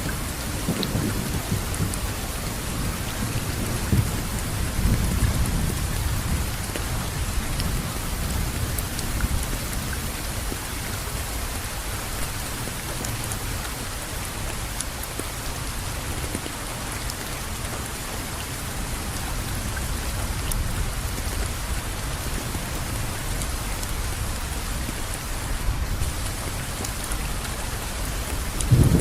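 Steady rainfall with a low rumble of thunder underneath, the rumble swelling about four to seven seconds in.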